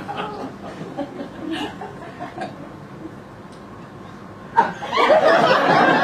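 Audience laughter that thins to scattered chuckles, then a fresh loud burst of laughter starting about four and a half seconds in.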